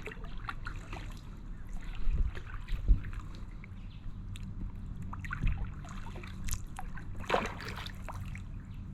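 Kayak paddle strokes: water splashing and dripping off the paddle blades, with a couple of dull thumps a few seconds in and a louder splash about seven seconds in.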